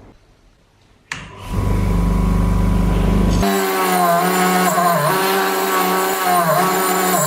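Loudspeakers driven by a restored power amplifier: a click about a second in, then a steady low hum. About three seconds in, loud music with a bending melody line starts playing.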